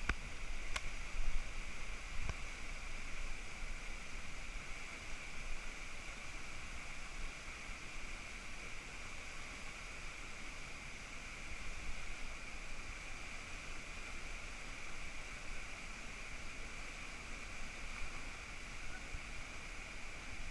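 Steady rushing noise with no break, with a few faint knocks in the first couple of seconds.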